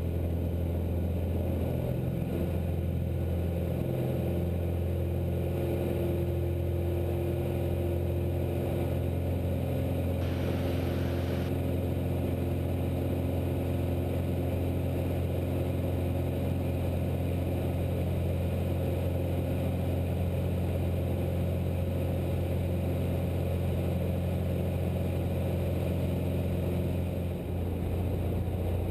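Cessna 172's piston engine droning steadily in flight, heard inside the cockpit. A short burst of hiss about ten seconds in.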